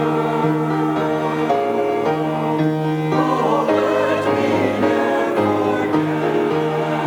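Church choir singing, with several voices holding sustained notes that change every second or so.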